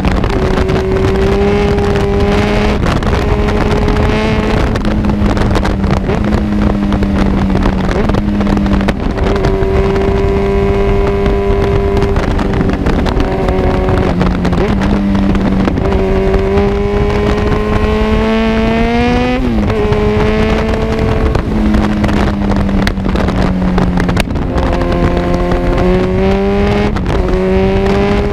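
Kawasaki Z1000 inline-four engine through an Arrow full-system exhaust, running at a mostly steady pitch while riding. About two-thirds of the way through the revs climb for a few seconds and then drop sharply at a gear change, and they climb again near the end.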